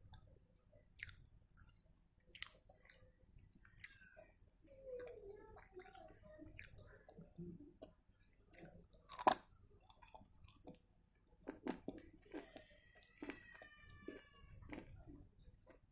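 Pieces of dry edible clay bitten and chewed close to the microphone: a series of separate sharp crunches, the loudest about nine seconds in, with softer chewing between. A brief squeak is heard about thirteen seconds in.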